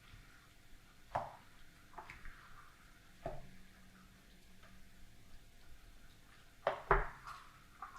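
A handful of light, separate clicks and taps, about seven in all, with the loudest pair close together near the end.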